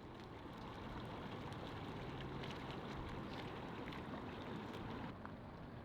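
Boat motor running steadily at low power, a low hum under an even noisy background.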